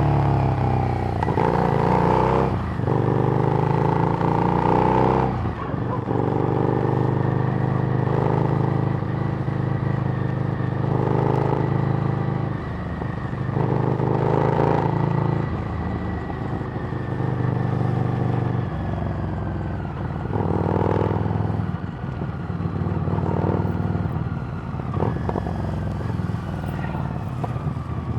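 Harley-Davidson Street Rod's 750 cc V-twin running through a Screamin' Eagle exhaust while riding, the engine speed rising and falling several times.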